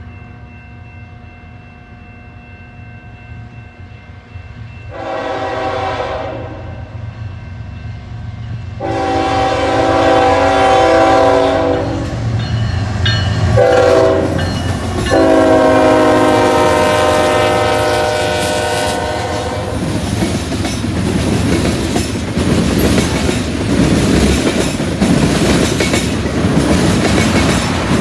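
Approaching CN freight train: the diesel locomotives' engines drone steadily while the lead locomotive blows its horn in the grade-crossing pattern of long, long, short, long. After that the tank cars roll past, their wheels clattering over rail joints and a switch.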